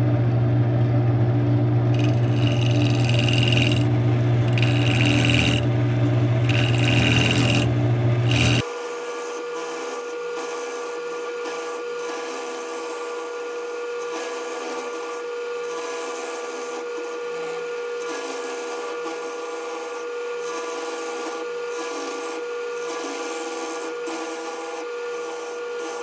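Wood lathe running while a carbide turning tool scrapes and cuts the spinning maple blank, over a steady motor hum. About nine seconds in the sound changes abruptly to a quieter, higher-pitched steady hum with lighter cutting noise.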